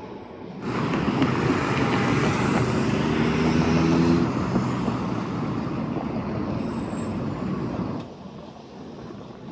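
Road traffic noise with a vehicle engine's hum, starting suddenly about half a second in, loudest in the middle, and cutting off sharply about a second and a half before the end.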